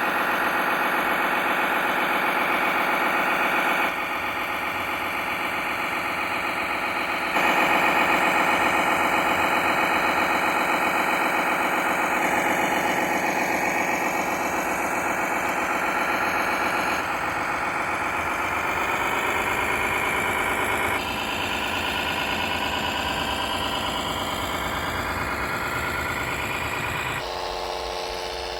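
Engine sound of RC model vehicles from their electronic sound modules, idling and revving, in a run of short clips that change abruptly every few seconds; in the middle the engine pitch glides up and then down.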